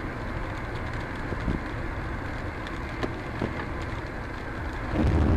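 A car driving: a steady low rumble of road and engine noise that suddenly gets louder about five seconds in.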